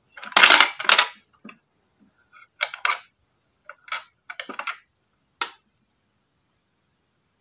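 Handling of a toy mini vending machine: a loud clatter of small hard clicks and rattles about half a second in, like coins or small items dropping, then a few shorter bursts of clicks.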